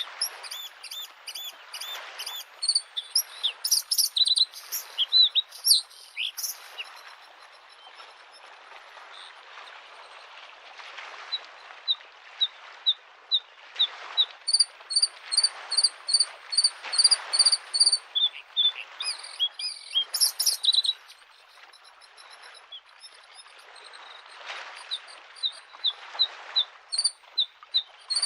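Bluethroat singing in phrases of rapidly repeated high, ringing notes, with pauses between the phrases. Under the song, small lake waves wash softly onto the shore, swelling and fading every few seconds.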